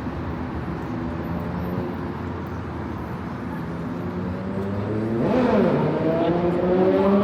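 City street traffic: car engines running under a steady hum of traffic. About five seconds in a vehicle gets louder and its engine pitch dips, then rises as it accelerates.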